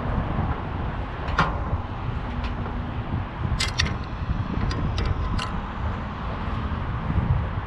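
Wind rumbling on the microphone, with a handful of sharp clicks and taps: one about a second and a half in, then a cluster between about three and a half and five and a half seconds in.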